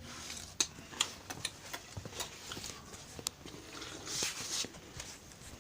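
Someone eating: scattered small clicks and smacks of chewing and mouth noises, with a short breathy hiss about four seconds in.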